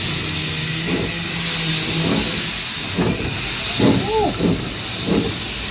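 Steam hissing steadily from a standing steam locomotive, with voices briefly audible over it from about three seconds in.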